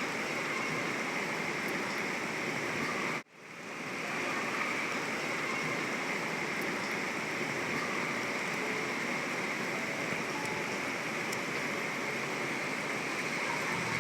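Heavy rain falling, a steady hiss that drops out suddenly about three seconds in and fades back up within a second.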